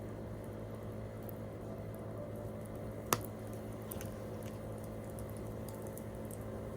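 Wood campfire crackling with scattered small ticks and one sharp pop about three seconds in, over a steady low background hum.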